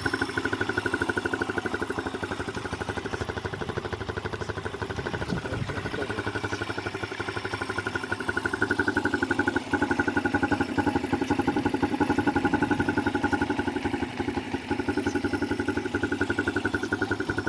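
Motorcycle engine running steadily, with an even, rapid pulse of exhaust beats and no revving; it gets a little louder about halfway through.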